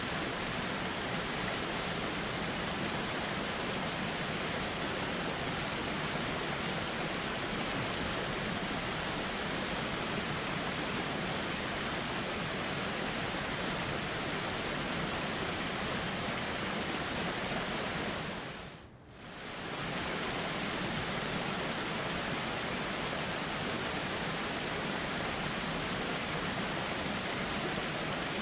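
Steady rushing of a flowing river, an even wash of water noise. About nineteen seconds in it fades down briefly and comes straight back up, like a loop seam in the recording.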